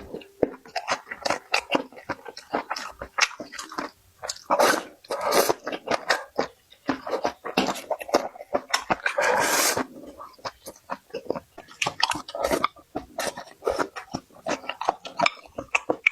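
Close-miked chewing and mouth sounds of a person eating: rapid irregular smacking and crunching, with longer noisy stretches about 5 and 9 seconds in.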